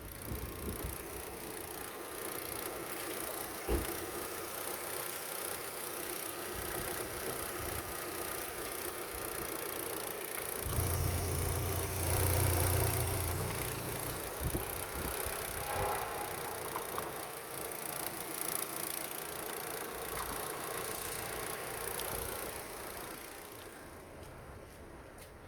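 Opel Vectra C's 1.8 Z18XER four-cylinder petrol engine running on test. There is a sharp knock about four seconds in, and a louder, deeper stretch of about three seconds around the middle.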